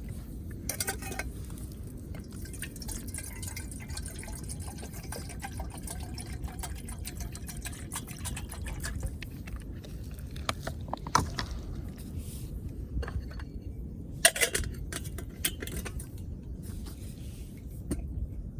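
Water being poured and filling a container, with a few sharp knocks, the loudest about eleven and fourteen seconds in.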